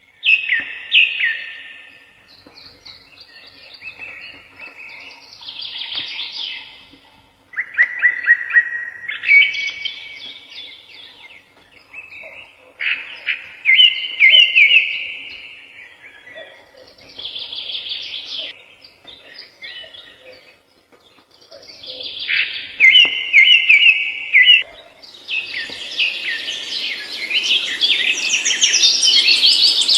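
Birdsong: bursts of rapid repeated chirped notes in phrases a couple of seconds long, with short pauses between them. Near the end the song becomes denser and overlapping, reaching higher in pitch.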